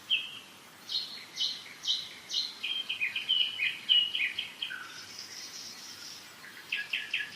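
Several forest songbirds singing: a series of repeated clear notes, then a run of quick notes, and a fast trill near the end. Underneath is the faint steady rush of a mountain river.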